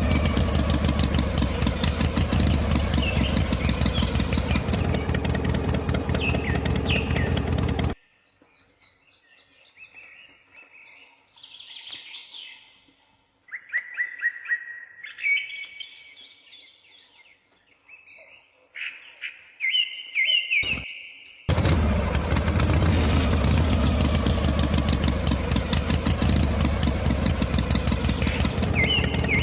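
A small motor running loud and steady, which cuts off abruptly about eight seconds in, leaving only birds chirping; near the end of the quiet stretch the motor noise starts up again just as abruptly and runs on.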